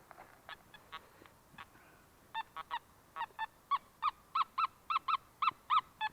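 Metal detector sounding short, pitched target beeps as the coil is swept over a buried target. The beeps are scattered at first, then come steadily about three a second and louder from about halfway in.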